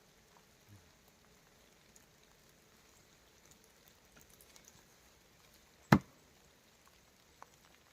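A single sharp knock about six seconds in, with faint scattered drips of rain around it.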